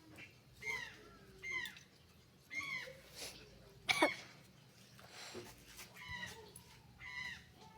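An animal calling over and over in short, high, arched calls about once a second, with one sharp click about four seconds in.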